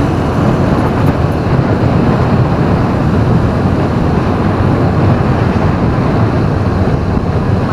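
Steady low rumble of a vehicle driving along a city street: engine and tyre noise at an even level.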